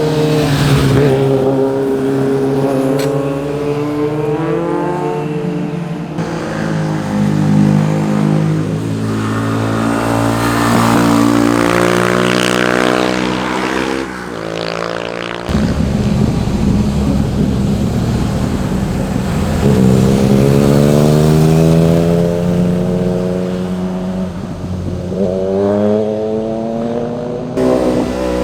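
Sport motorcycle exhaust, the engines revving up hard through the gears and easing off in turn, in several clips joined with abrupt cuts.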